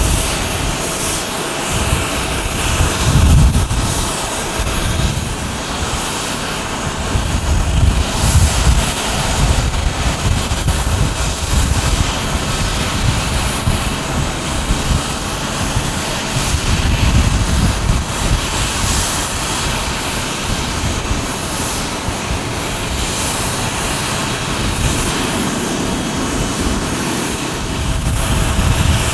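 Airbus A330-300's General Electric CF6 turbofan jet engines running, a steady loud rush of noise with a faint steady tone, overlaid by irregular low buffeting that rises and falls every few seconds.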